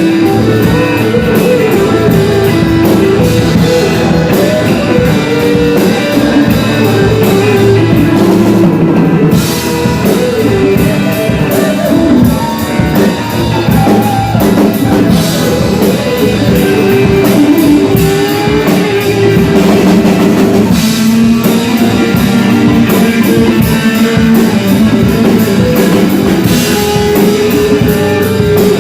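Loud rock music with guitar and drum kit playing steadily, with no pause.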